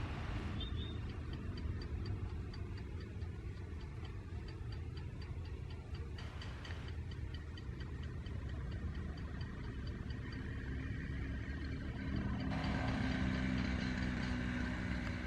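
Railway scene at a level crossing: a steady low engine rumble with a regular high ticking about three times a second, growing louder about three-quarters of the way through.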